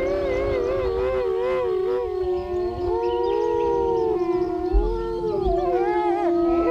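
Several canines howling together in a chorus, long overlapping howls, some held steady and some wavering up and down in pitch.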